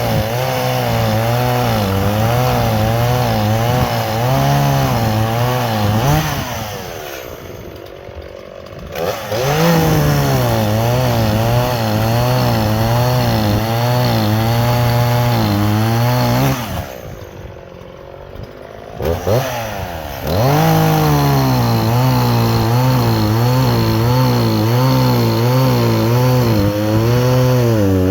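Chainsaw cutting wood, its engine note wavering up and down under load. It drops back to idle twice, about a quarter of the way in and again past halfway, and revs up into the cut again each time.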